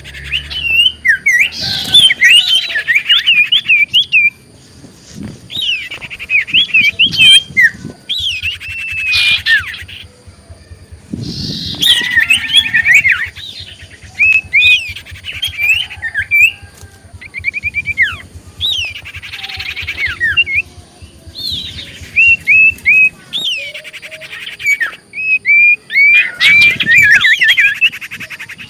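Common iora (cipoh) singing loudly and busily: bursts of sharp chirps and quick up-and-down whistled notes, phrase after phrase with short pauses between.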